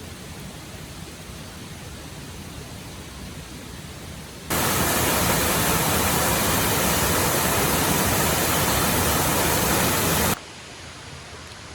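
Steady hiss of rain falling, much louder from about four and a half seconds in until it cuts off suddenly near the end.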